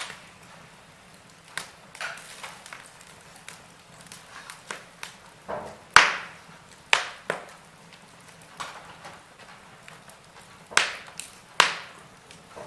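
Wood fire burning in a fireplace, crackling and popping at irregular moments over a faint low hiss, with a sharp pop about halfway through and two more near the end.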